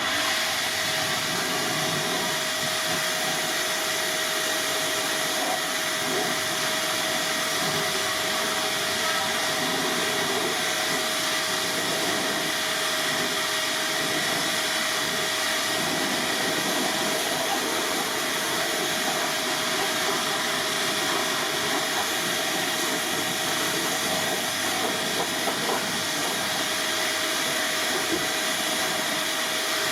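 A cleaning machine running steadily with a continuous hiss and a few faint steady whining tones, unchanged throughout.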